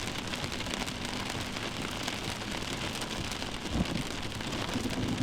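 Steady heavy rain, with a single low thump almost four seconds in.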